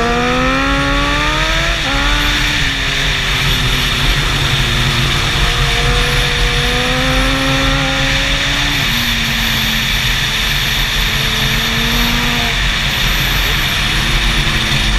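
Superbike engine pulling hard through the gears, its pitch climbing and then dropping sharply at each upshift, three times, over a loud rush of wind noise.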